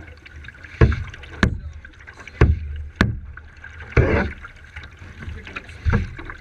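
Kayak paddling: about six irregular splashes and knocks of the paddle in the water and against the hull, over a steady hiss of moving water.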